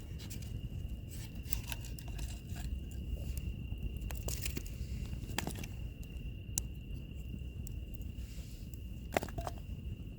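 Wood fire crackling with scattered sharp pops, the loudest about six and a half and nine seconds in, over a low steady rumble. A steady high insect trill runs underneath.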